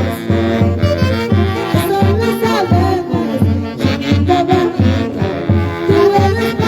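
Live band music from a Huancayo orchestra playing a santiago: an instrumental passage between sung verses, with wind instruments carrying a wavering melody over a steady, pulsing bass beat.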